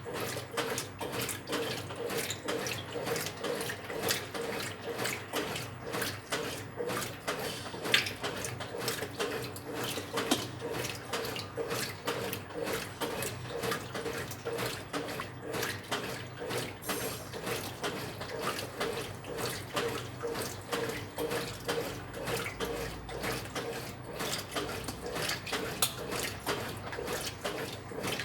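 Brastemp 9 kg washing machine with water splashing and churning in its tub over a steady motor hum, the level pulsing about twice a second.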